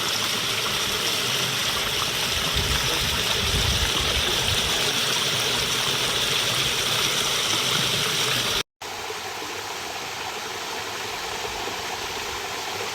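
Rain-fed torrent water rushing steadily. The sound cuts out for an instant shortly before 9 seconds in and comes back a little quieter.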